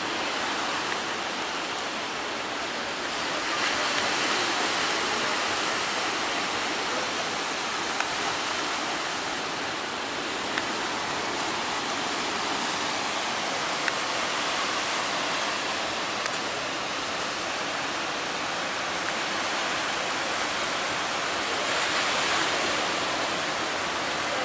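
Heavy surf breaking: a steady rushing noise that swells about three seconds in and again near the end, with a couple of faint clicks.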